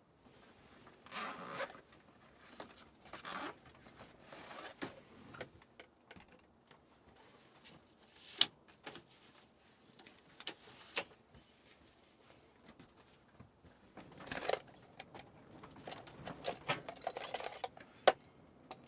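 Close handling noises: irregular short rustling scrapes, like fabric or a zipper being worked, with a few sharp clicks.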